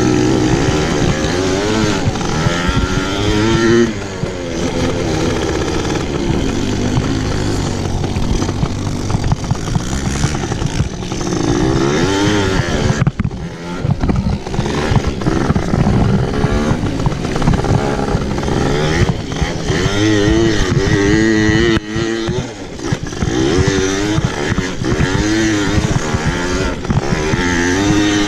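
Pit bike engine being ridden hard, its pitch rising and falling over and over as the throttle is worked, with a couple of brief let-offs along the way.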